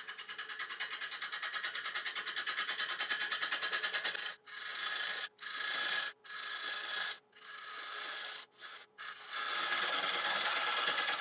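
A 3/8 ball gouge cutting across the face of a spinning Iroko platter blank at about 600 RPM. At first the cut pulses about ten times a second, once per turn, as the gouge catches the high spots of the uneven face while truing it. From about four seconds in it becomes a steadier cut, broken by several sudden short breaks.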